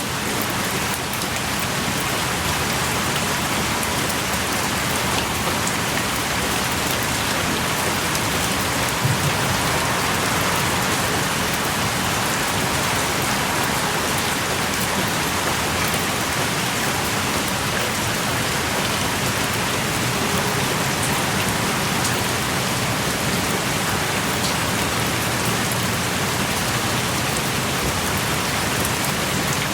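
Heavy rain pouring steadily, with scattered drops striking close by. It sounds like rain heard from the shelter of a small cave.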